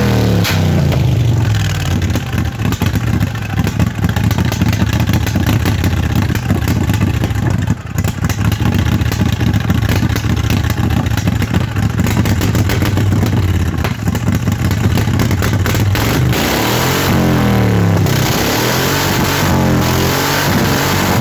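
Mud mower engine revving through its new exhaust. The pitch climbs and falls just after the start and several times in the last few seconds, with a steady, rattly run at high revs in between.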